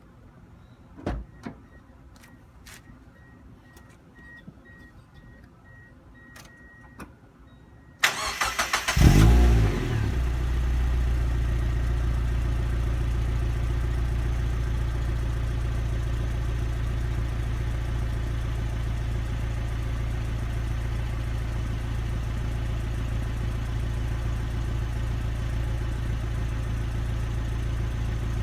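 Mazda Roadster NB8C's 1.8-litre four-cylinder through its stock muffler: a few faint clicks, then about eight seconds in the engine cranks, catches and settles into a steady idle.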